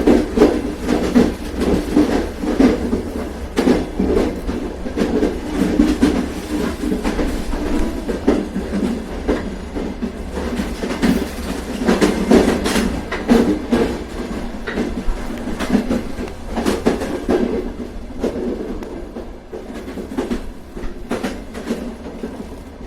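Train running on rails, a steady low rumble with irregular clickety-clack of the wheels over the track, easing a little in loudness near the end.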